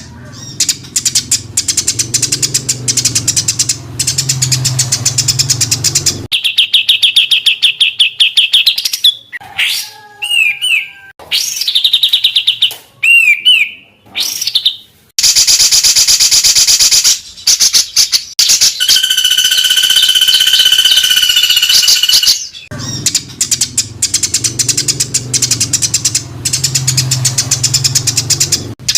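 Songbirds calling in dense, harsh bursts: a fast rattling chatter, then high trills and short sliding notes, a long buzzy song, and the rattling chatter again near the end. This is masteran tutor song of the rapid, rough 'tembakan' kind, played to teach caged songbirds.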